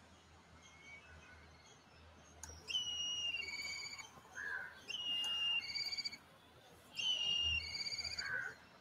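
A songbird sings the same short phrase three times, about two seconds apart. Each phrase is a high held note followed by a quick trilled note, with shorter, lower calls between them.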